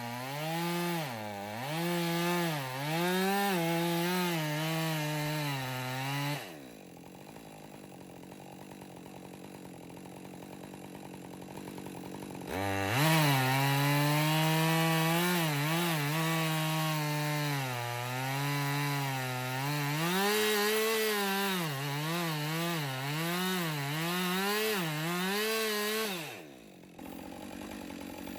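Chainsaw cutting into a dead poplar trunk, its engine at high revs and dipping in pitch under load. It drops to idle about six seconds in, revs back up and cuts again from about halfway, and falls back to idle near the end.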